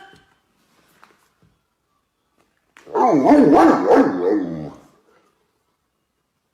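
A dog vocalizing once for about two seconds, its pitch wavering up and down, starting about three seconds in after a near-quiet stretch.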